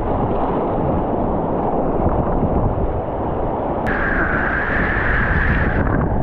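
Rushing creek whitewater with wind buffeting the microphone. About four seconds in a click is followed by a steady higher-pitched hiss for about two seconds.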